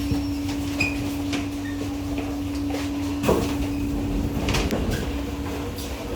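Cabin of a C151A metro train standing at the platform: a steady low rumble and a steady hum, with scattered clicks and knocks. The hum cuts off with a knock about three seconds in.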